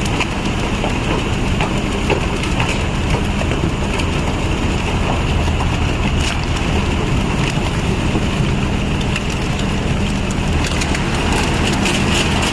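A machine's engine running steadily under a loud, even wash of noise with scattered clicks.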